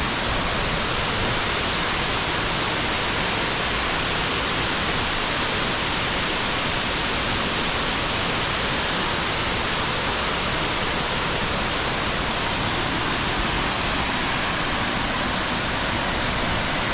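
Waterfall: falling water making a steady, even rush of noise with no breaks.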